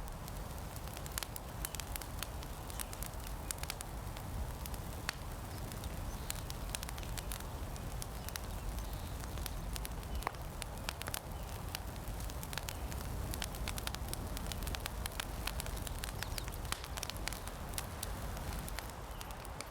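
Campfire crackling: irregular sharp pops and snaps over a steady low background rumble.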